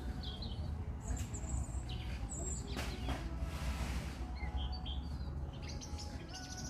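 European robin (robin redbreast) singing: short, high, thin warbling phrases broken by brief pauses, over a steady low background rumble.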